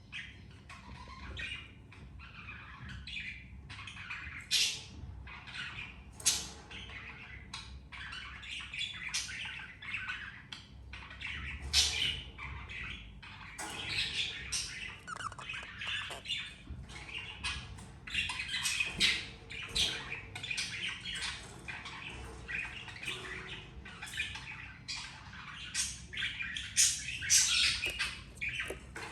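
Budgerigars chattering with a constant run of short, harsh squawks and chirps, some much louder than others.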